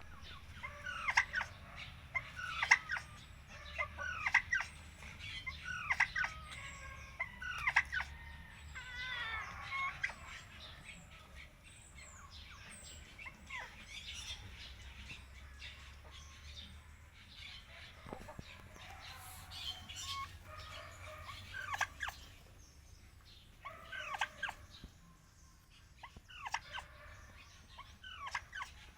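Repeated calls of a fowl, one about every second and a half for the first eight seconds, then a few scattered calls. Faint high chirps of small birds and a low steady rumble run underneath.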